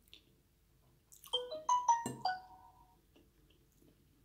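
Smartphone alert tone: a short melody of quick notes stepping up and down, lasting about a second and a half, with a knock in the middle of it.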